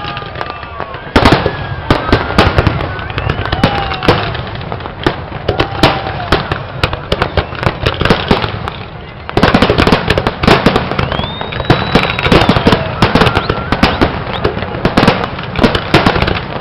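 Fireworks display: a dense run of bangs and crackles, swelling sharply about a second in and again about nine seconds in.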